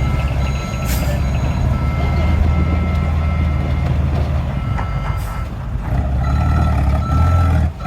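Dump truck diesel engine running steadily while a reversing alarm beeps on and off, with short hisses about a second in and again about five seconds in.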